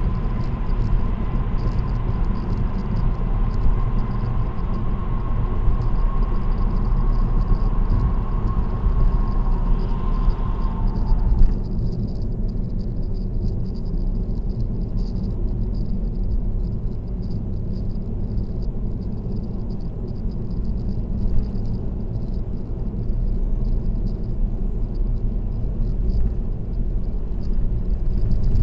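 Car driving on an expressway: steady low tyre and road rumble. A thin steady whine runs through the first part and stops about eleven seconds in, when the hiss above the rumble also drops away.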